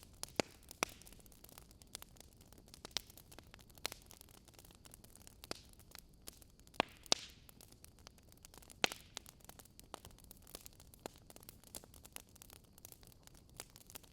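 Campfire crackling: irregular sharp pops and snaps over a faint, steady hiss, with the loudest pair of pops about seven seconds in.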